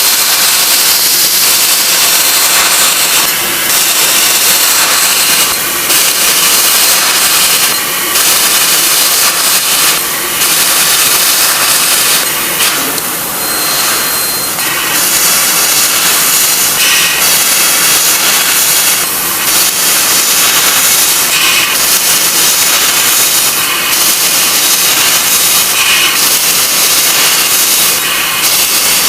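CNC laser cutter cutting sheet metal: a loud, steady hiss from the cutting head's gas jet, with short dips every few seconds.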